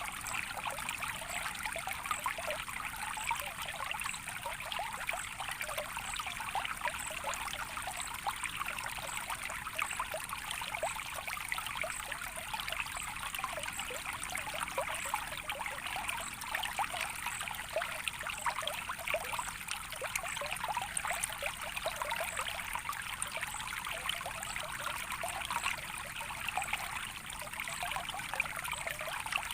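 Flowing water trickling steadily, a soft, even splashing with no let-up.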